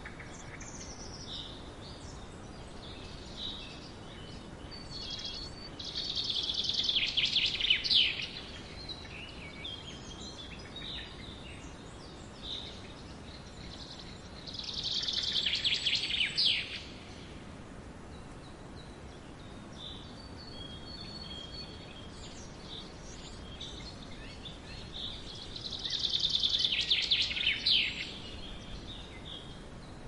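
A songbird singing three loud phrases, each about two seconds long and about ten seconds apart, each building up and then stopping abruptly. Softer chirps fall between the phrases over a steady background hiss.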